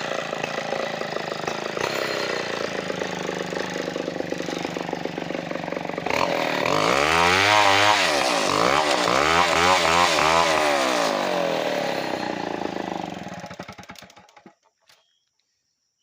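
Two-stroke chainsaw running steadily, then revved up and down several times about six seconds in, before the engine sound dies away near the end.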